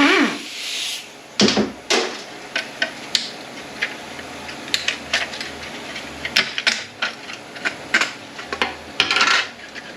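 Irregular metallic clicks, clinks and knocks of tools and loose transmission parts being handled on the bench, with a short rush of noise in the first second.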